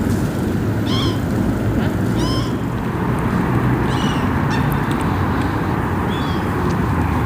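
A bird calls four times in short, high, mewing notes, spaced a second or two apart, over a steady low rumble.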